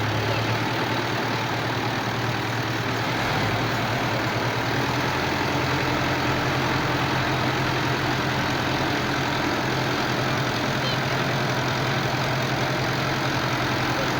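Tractor diesel engines running steadily under load in a tug-of-war pull, a loud continuous low drone whose pitch shifts slightly a few times early on.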